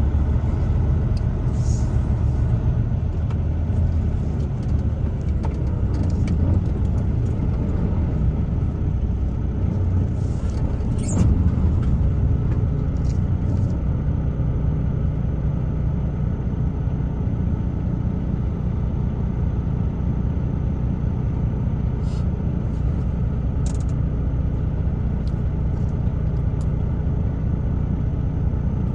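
Truck driving along the road: a steady low rumble of engine and tyre noise, with a few short clicks, the loudest about eleven seconds in.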